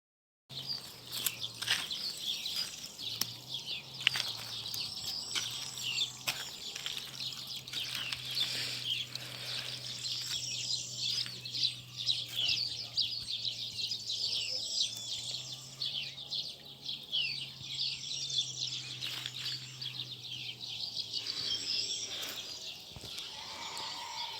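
Many small birds chirping at once in a dense, busy chorus, with a faint steady low hum underneath.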